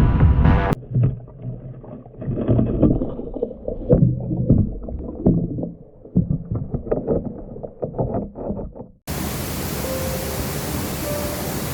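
Waterfall rushing, an even steady roar that cuts in suddenly about nine seconds in. Before it come several seconds of irregular low thumps and knocks with small clicks, and electronic music cuts off under a second in.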